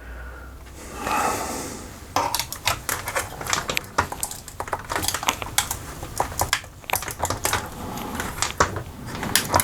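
Jammed laminating pouch, glued together and brittle from the hot rollers, crackling and clicking in quick irregular snaps as it is pulled out of the laminator's rollers by hand.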